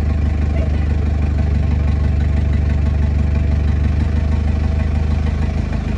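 A heavy engine running steadily at idle, a deep even hum with no change in speed.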